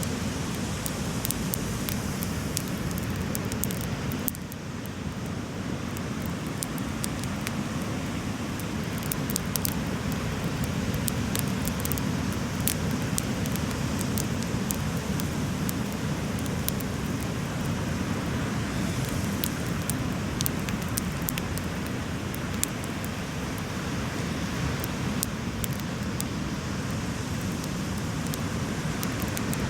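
Beach bonfire crackling, with sharp pops scattered throughout over a steady low rushing noise.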